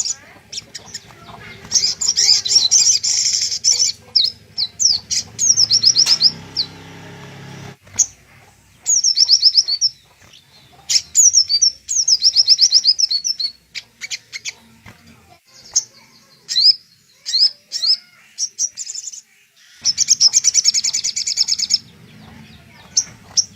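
Crimson sunbird singing: high, fast trilled phrases of a second or two each, repeated with short pauses, used as training song for cage birds.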